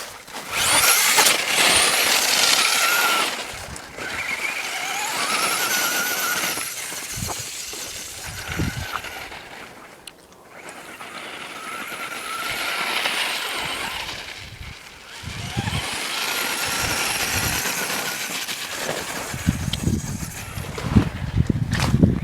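Remote-control toy truck's electric motor whining in four long surges as it is driven, with lower thumps near the end.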